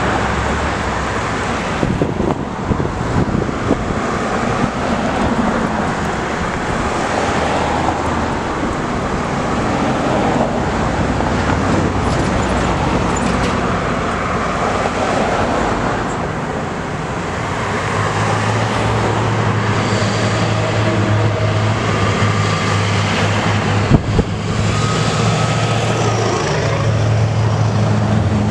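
Diesel trucks of a convoy driving, with a steady low engine hum and road noise. The hum grows stronger in the second half, and a single sharp click comes about three-quarters of the way through.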